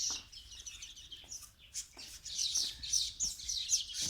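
Baya weaver birds chirping: many short, high chirps in quick succession, growing busier about halfway through.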